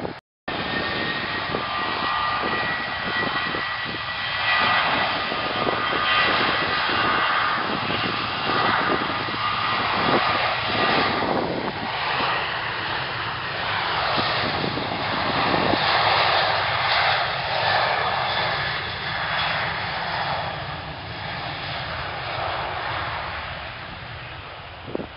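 Airliner's engines running loudly as it passes, a steady rush with a high whine, fading away near the end.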